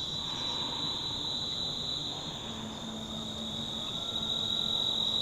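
Insects trilling in a steady, high-pitched chorus that does not break.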